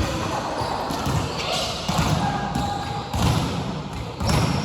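A volleyball being hit and bouncing on a hard court floor: a handful of separate thuds spread about a second apart.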